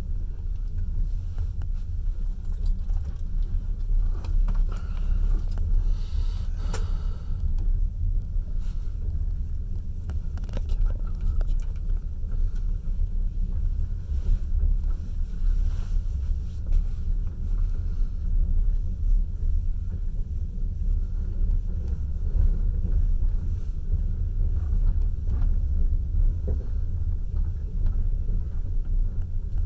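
Passenger train running on the rails, heard from inside the carriage at the window: a steady low rumble with occasional light clicks.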